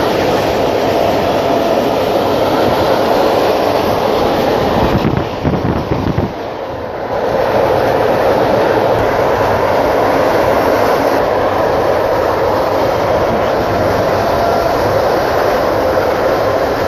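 Passenger train running along the line, heard from inside the carriage: a steady rumble and rattle of wheels on rails. It drops in level for about two seconds roughly five seconds in, then comes back up.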